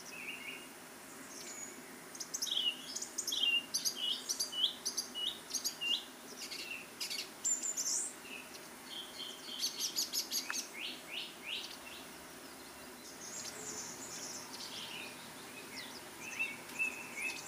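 Small birds singing and calling: runs of short, high chirps and quick trills that come and go, some louder bursts in the middle, over a faint steady background hum.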